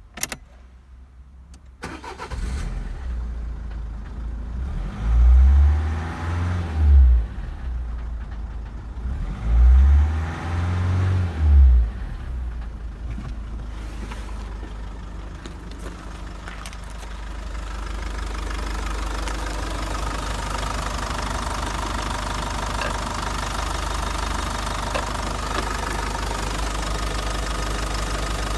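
Mitsubishi Space Star's F9Q 1.9 turbodiesel four-cylinder engine starting up, with two loud low surges in the first dozen seconds, then settling to a steady idle from about halfway in.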